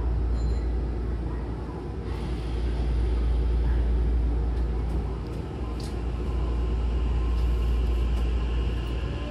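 Hankyu Takarazuka Line electric train pulling away from a station, heard from inside the car: a steady low rumble of running gear and motors, growing fuller about two seconds in, with a faint steady electric motor whine later on.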